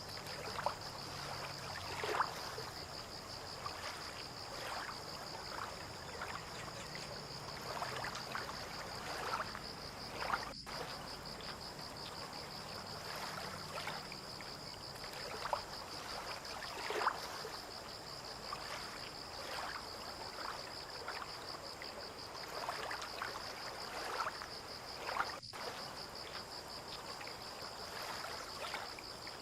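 Water gently lapping and splashing in irregular little slaps, under a steady high-pitched insect trill.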